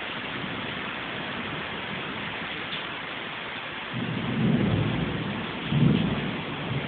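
Heavy tropical rain falling steadily in a thunderstorm, with a low rumble of thunder building about four seconds in and swelling twice before fading.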